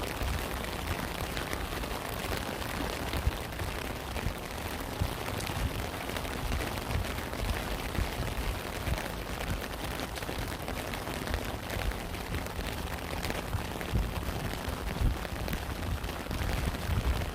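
Rain falling steadily: a constant hiss, with many single drops heard as ticks and dull low thuds, a few of them a little louder.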